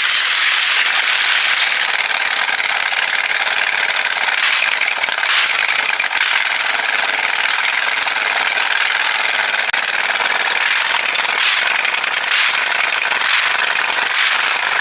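Pro-Quip 26 HP 750 cc engine running: a loud, steady, dense noise with irregular rattles through it.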